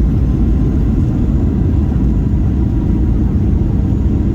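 Boeing 737 passenger cabin noise: a steady low rumble of engines and airflow.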